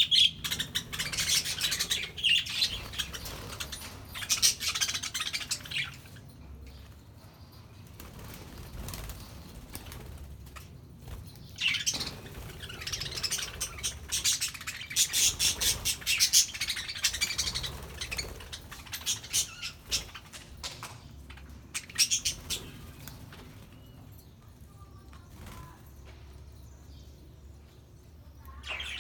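A flock of budgerigars chirping and chattering in two long stretches, quieter with scattered calls in between and near the end.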